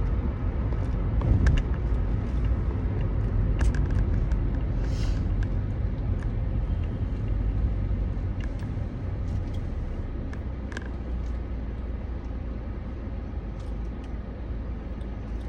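A car being driven: a steady low rumble of engine and road noise, easing off gradually over the second half, with scattered light clicks.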